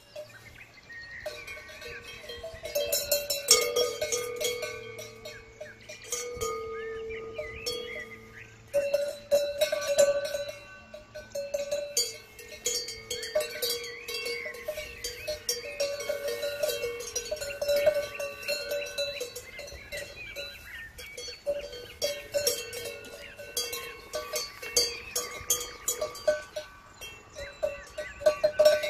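Cowbells on grazing cows clanking irregularly as the cows move their heads. At least two bells of different pitch ring on and off throughout.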